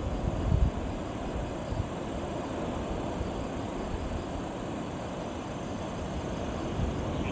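Steady rushing outdoor noise of wind and sea, strongest in the low end, with no distinct events.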